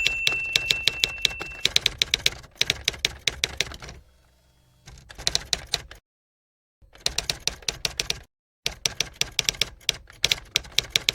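Typewriter key clacking in quick runs of sharp clicks, with a bell ding ringing during the first second or so. The runs break off twice into dead silence.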